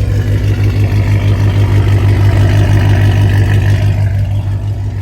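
A car engine running loudly with a steady deep hum, swelling a little about two seconds in and easing off again near the end.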